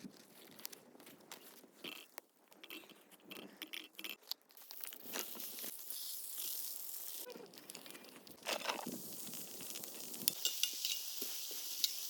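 Crunchy clicks and rustles of food being handled, then food sizzling in a hot pan from about five seconds in. The sizzle grows louder after about eight seconds, with sharp crackling pops.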